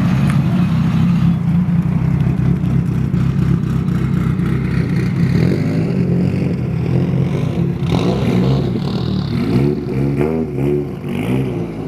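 Car engine idling with a steady low drone; near the end a pitched sound wavers up and down over it.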